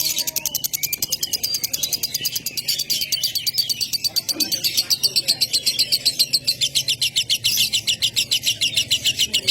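A small bird calling in a fast, even string of high chirps, about seven or eight a second.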